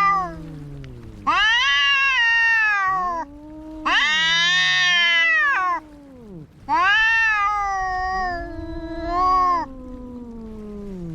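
Domestic cats caterwauling in a fight: three long, wavering yowls that rise and fall in pitch, with a lower second cat's growling wail beneath them.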